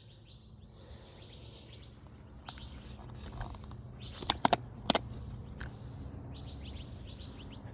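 Faint birds chirping over a quiet outdoor background, with three sharp metallic clinks about four to five seconds in as vintage hand tools are handled.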